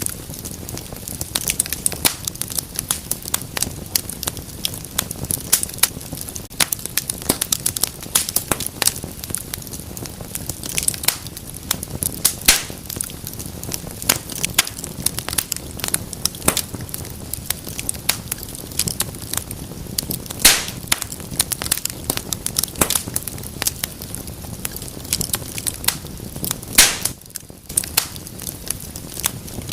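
Wood fire burning in a fireplace: a steady low rumble and hiss of flames with dense, irregular sharp crackles and pops from the burning logs.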